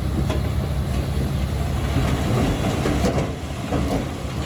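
Bulldozer's diesel engine running steadily under load, with its steel crawler tracks clanking and rattling irregularly.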